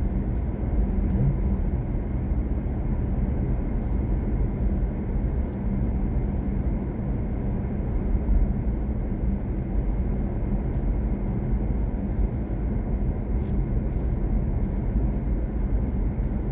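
Steady road and tyre rumble inside the cabin of a BMW i4 M50 electric car while driving, with a low hum running under it.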